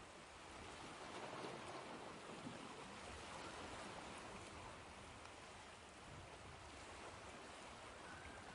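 Ocean waves washing in, a soft, steady rush that swells about a second in and slowly eases off.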